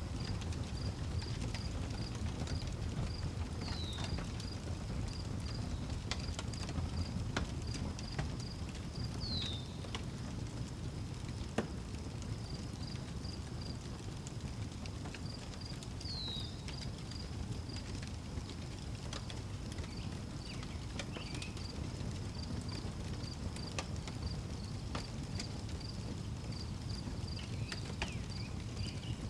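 Wood fire crackling with scattered sharp pops over a steady low rumble, while crickets chirp in an even, rapid pulse. A bird gives a short falling call three times.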